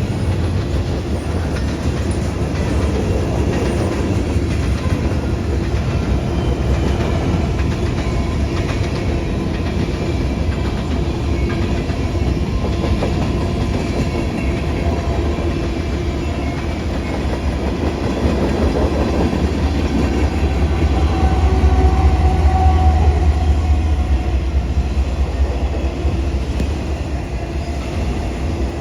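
Train rolling past with its railroad cars' wheels clacking over the rail joints, growing louder for a few seconds around the middle before easing off.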